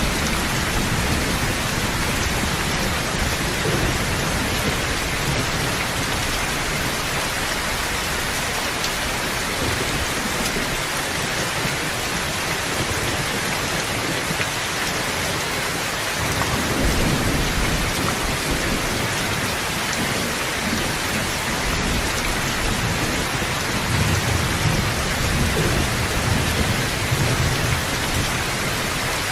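Steady rain hiss with low rolls of thunder, one about halfway through and a longer one near the end.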